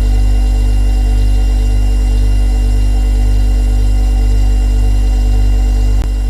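Refrigerator compressor running with a steady low hum and faint higher whining tones. A brief click comes near the end, after which the hum is slightly quieter.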